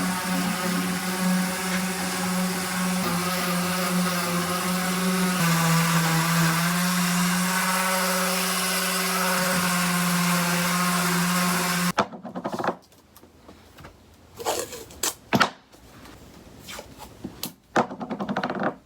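An electric power tool's motor running steadily, dropping slightly in pitch about five seconds in, then cutting off suddenly about twelve seconds in. After that come scattered scraping and rubbing strokes, as of hand sanding or scraping on a wall.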